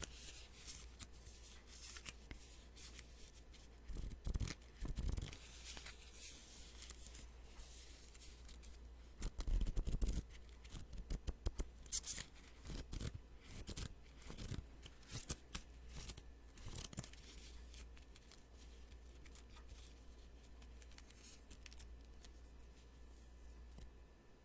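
Sticky notes being peeled off a pad and handled close to the microphone: irregular crisp paper crackles and tearing rustles, loudest about ten seconds in.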